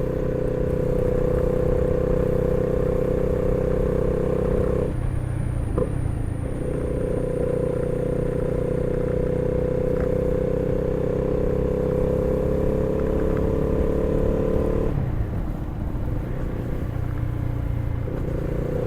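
Honda CB300R single-cylinder engine running while the motorcycle is ridden, holding a steady note. The engine note drops away briefly about five seconds in and again around fifteen seconds in, then picks back up as the throttle opens again.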